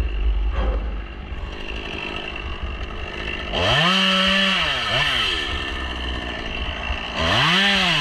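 Gas chainsaw idling, then revved up hard for about a second and a half with a quick extra blip as it drops back. It is revved again near the end.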